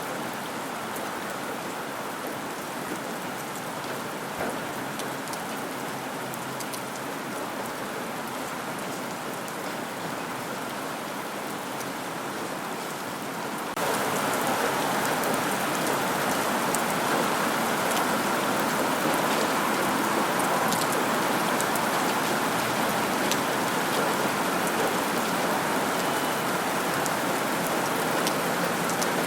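Steady rain falling, with fine scattered drop ticks. About halfway through it suddenly gets louder and brighter, then holds steady.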